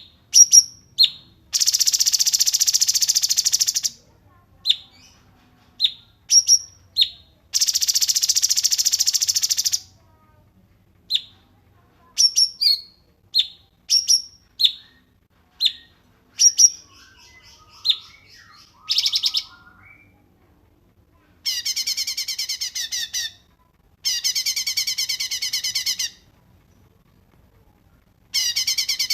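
Small songbird calling: a string of short, sharp chirps falling in pitch, broken by two long, harsh buzzing trills about two and eight seconds in, and later by fast rattling trills.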